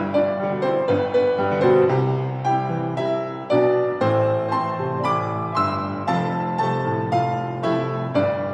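Piano playing a tune over chords, the notes struck steadily a few times a second.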